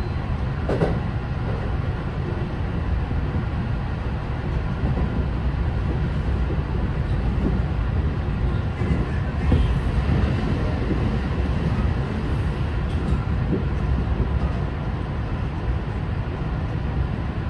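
Kintetsu 9020 series electric train running at about 68 km/h: a steady rumble of wheels on rails, heard from inside the front car.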